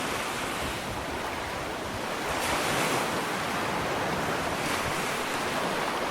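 Ocean waves breaking and washing up a sandy beach, a steady surf noise that swells as a wave breaks a little over two seconds in, with some wind on the microphone.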